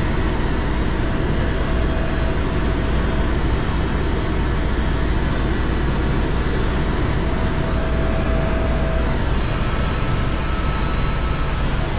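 Helicopter in steady flight, heard from inside the cabin: a loud, unchanging rotor and engine din with a deep low rumble.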